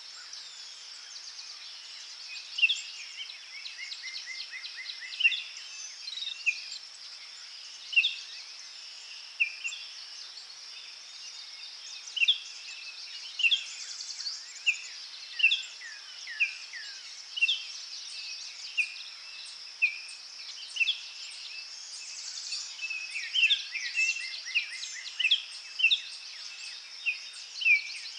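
Forest birds singing: short, clear whistled notes repeat about once a second, with a couple of quick trilled runs, over a steady high insect buzz.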